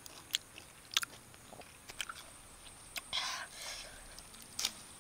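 Close-up eating sounds: sharp crisp bites and mouth clicks as sour flower buds are chewed, a few separate snaps over the seconds, with a short hissing sound about three seconds in.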